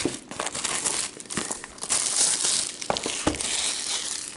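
Plastic shrink-wrap on a trading-card hobby box being torn and crinkled off by hand: a busy crackling rustle with sharp snaps, loudest a little past the middle.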